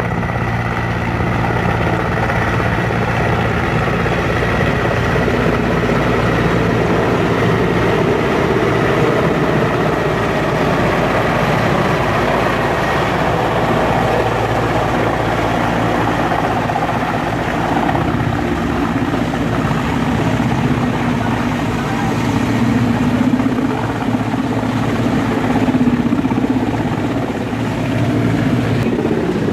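Helicopter running steadily nearby: a loud continuous rotor and turbine noise with a steady low hum that holds for the whole stretch.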